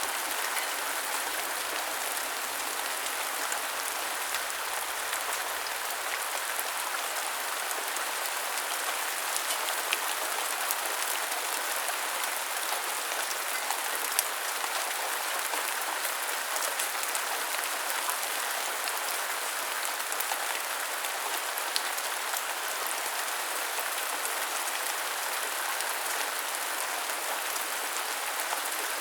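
Steady rain falling, an even hiss dotted with small ticks of individual drops.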